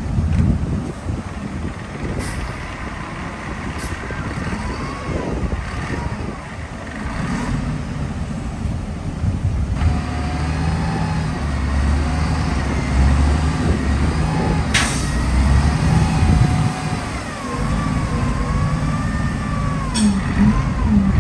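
Heavy diesel construction machinery running under load: a deep engine rumble with a wavering high whine from about ten seconds in, and a few sharp metallic clanks.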